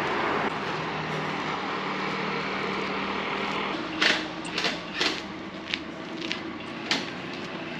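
A motor vehicle's engine running close by with a steady hum, ending a little under four seconds in; then a few sharp knocks.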